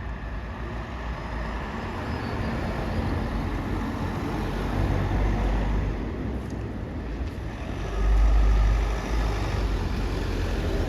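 A motor vehicle drives up on the road, its engine and tyre noise building over the first few seconds, with a heavier low rumble about eight seconds in.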